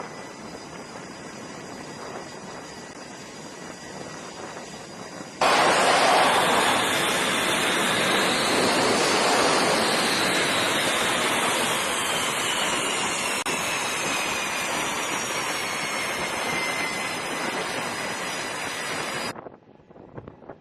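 Aircraft engine noise on a carrier deck: a quieter steady rush with faint high tones, then suddenly loud engine noise with a high whine that rises and then slowly falls in pitch as the plane passes, cutting off abruptly near the end.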